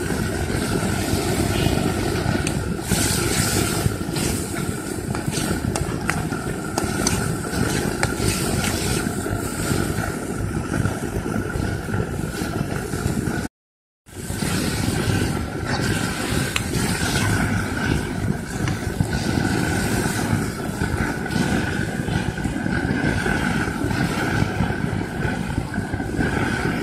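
Chopped onions and tomatoes frying in oil in a kadai, with a slotted metal spatula scraping and stirring against the pan. The sound cuts out completely for a moment a little past halfway, then carries on.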